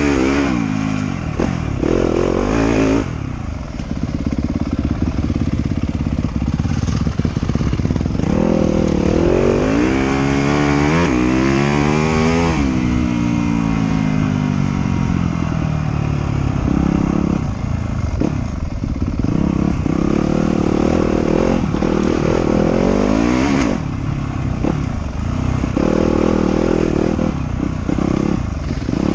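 Trail motorcycle engine running hard, its pitch rising and falling repeatedly as the throttle opens and closes and the gears change. About eight seconds in it climbs steadily in pitch for a few seconds, then drops away.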